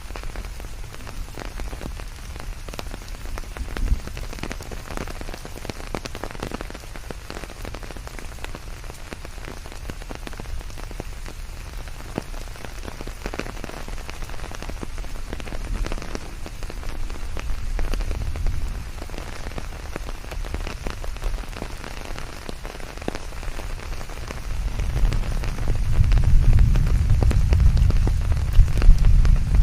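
Steady rain falling, with many separate drops ticking on a surface. Near the end a deep low rumble swells up under the rain.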